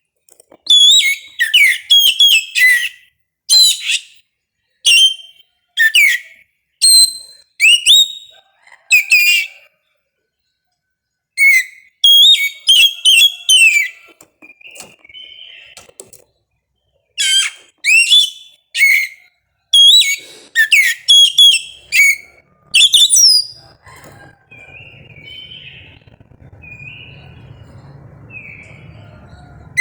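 Oriental magpie-robin (kacer) singing: loud clusters of sharply sweeping whistled notes, each burst a second or two long with short pauses between. About 24 seconds in the loud song stops and only softer, shorter notes remain over a faint low hum.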